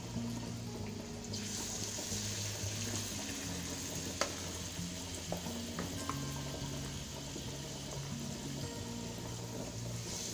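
Urad dal batter fritters (bhalle) frying in hot oil: a steady sizzle that grows louder about a second and a half in, with a few light clicks, over background music.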